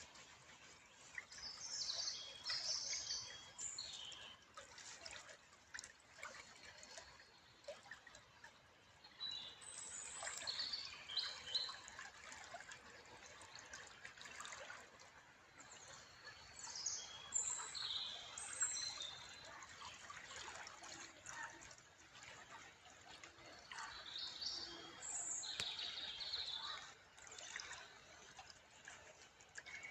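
Small songbirds chirping and twittering in clusters every several seconds over a steady trickle of running water.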